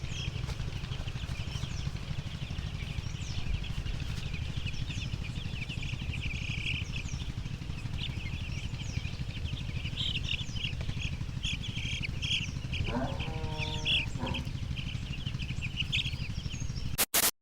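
A flock of week-old broiler chicks peeping, many short high chirps over one another, over a steady low rumble. A brief pitched call sounds once, near the end.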